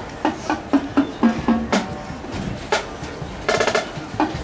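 Marching band drumline playing a cadence: short snare rolls and sharp drum strokes in a repeating rhythmic pattern.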